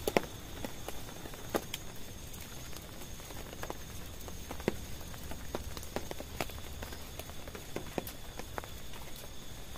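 Scattered raindrops tapping on a tent: irregular sharp ticks, a few each second, over a faint steady hiss.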